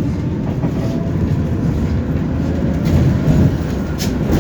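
Tram running on its rails, heard from inside the car: a steady rumble of wheels and running gear, with one sharp clack about four seconds in.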